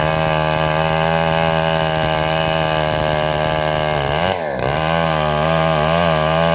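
Engine-driven homemade bandsaw running steadily while cutting trembesi wood. About four seconds in, the engine's pitch dips sharply and recovers, then wavers slightly.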